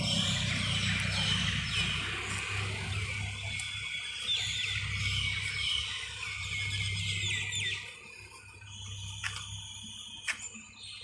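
Many small birds chirping in quick, short, falling calls that thin out about eight seconds in, leaving a few short high whistled notes. A low steady hum runs underneath.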